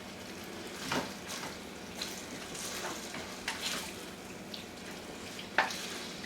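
Chicken chunks frying in oil in a skillet, a steady sizzle, with a few sharp knocks against the pan, the loudest about five and a half seconds in.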